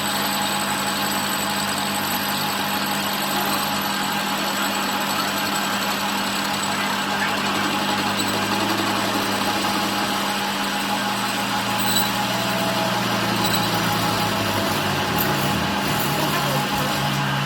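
Workshop machinery running steadily: a constant motor hum under an even mechanical noise. The low hum shifts in pitch about eleven seconds in.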